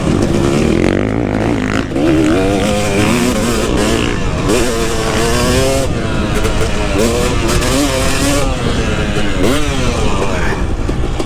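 KTM 250 SX two-stroke motocross engine being ridden hard, revving up and dropping back again and again as the throttle is worked and gears change, with a sharp climb in revs near the end.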